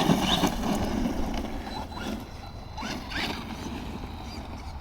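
Team Associated Rival MT10 electric RC monster truck driving on rough ground, its motor whining up briefly a couple of times over a rough rustle of tyres.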